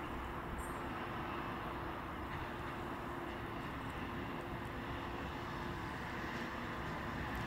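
Newag Griffin (class 111Ed) electric locomotive approaching slowly at the head of a freight train of cement tank wagons: a steady running rumble with a held hum, growing slightly louder near the end.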